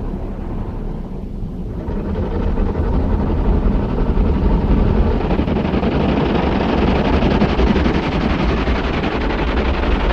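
A loud, continuous rumbling noise that swells and grows brighter about two seconds in, then holds steady.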